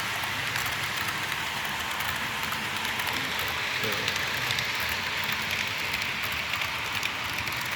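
HO-scale model train running on the layout: a steady rolling hiss from its wheels on the track, with many small, irregular clicks.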